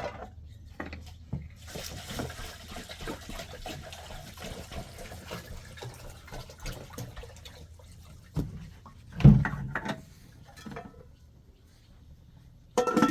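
Water running or being poured, with small splashes and clicks, then a dull thump about nine seconds in and a sharp knock near the end.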